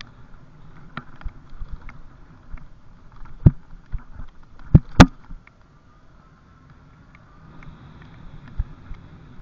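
Trail bike rattling over a rough forest trail: scattered sharp knocks and clunks from bumps, the loudest a close pair about halfway through, over a low rumble of wind on the microphone. It goes quieter for a couple of seconds after the knocks.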